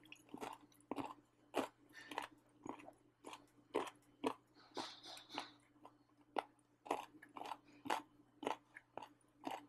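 A person chewing and crunching through pork rib cartilage (the 'soft bone'), heard close on a clip-on microphone: short, sharp crunches about twice a second, irregular in spacing, with the rhythm of steady chewing.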